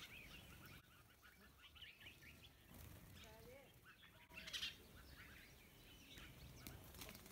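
Birds chirping and calling, faint: a quick run of high chirps, then a few lower whistled notes and short sharp high calls.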